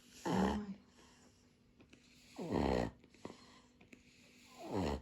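A dog snoring in its sleep: three snores about two seconds apart, each dropping in pitch.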